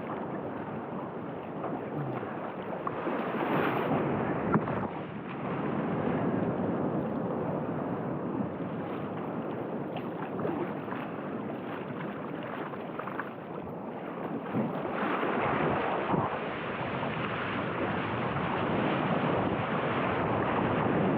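Rushing surf and water around a waveski riding the waves, with wind buffeting the microphone; a continuous, surging noise that swells in the later part.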